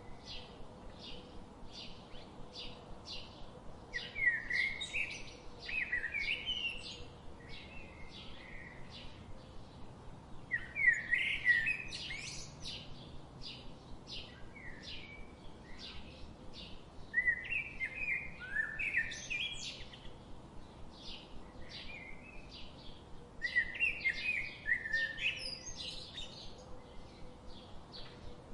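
Birdsong: a steady run of short, high chirps about two or three a second, with louder warbling phrases breaking in five times.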